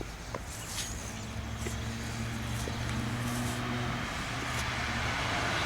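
A road vehicle approaching on the street: a low engine hum, with tyre noise growing steadily louder toward the end.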